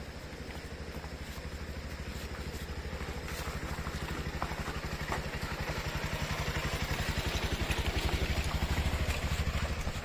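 Motorcycle engine running at low speed on a rough dirt track, its firing pulse steady and growing gradually louder, with a few light knocks from the bike over the ground.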